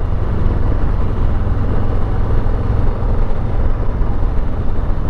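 Harley-Davidson Street Bob's V-twin engine running steadily while riding in gear, a deep rumble under a steady rush of wind noise.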